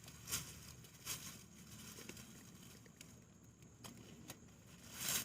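Faint rustling and crackling of sweet potato vines and leaves being pushed aside and handled, in short scattered bursts, the loudest near the end.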